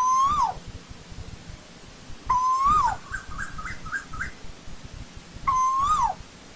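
Asian koel calling: three loud calls about three seconds apart, each a held note that bends up and then drops away. A quick run of short, higher notes follows the second call.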